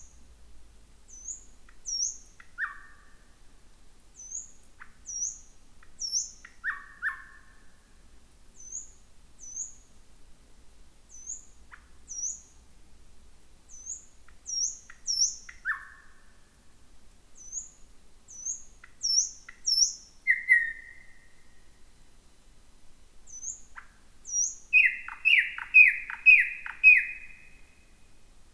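Thrush nightingale singing: paired high chirps repeated again and again, with occasional lower notes, then near the end a loud run of about five quick downward-sweeping notes.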